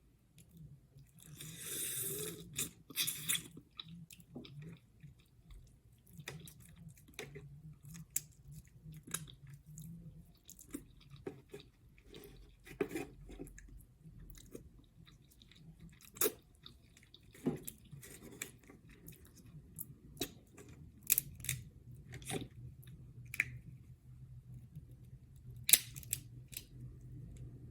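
Close-miked chewing and biting of seafood (crab legs and shrimp in butter sauce), with wet smacks and scattered crunchy clicks. A brief burst of rustling noise comes about two seconds in.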